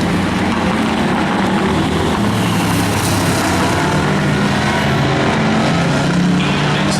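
Engines of several demo race cars running hard together around the track, a steady, dense mix of engine notes rising and falling in pitch.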